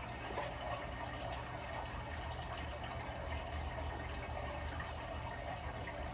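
Steady background noise with a low hum and no distinct events.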